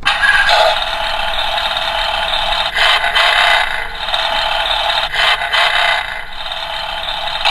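Tinny engine-racing sound effect from a talking toy car's small speaker: a steady, noisy rush that starts abruptly and runs for several seconds.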